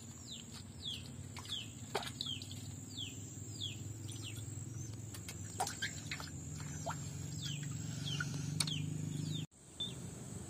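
A bird calling with repeated short chirps that fall in pitch, about one or two a second, over a steady high drone of insects, with a few scattered clicks.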